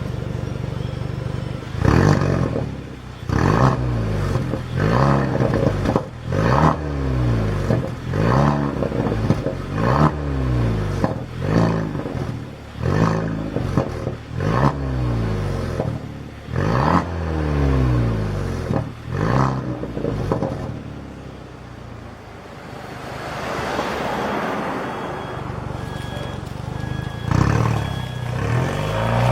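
Kia Stinger Meister 2.5's turbocharged four-cylinder revved through an aftermarket custom exhaust: a run of quick throttle blips, each rising and falling in pitch, about every second and a half, then a softer, rougher swell and one more blip near the end.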